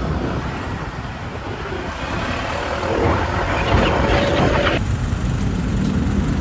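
Vehicle engine and road noise, a steady low rumble, changing abruptly about five seconds in to a steadier low hum.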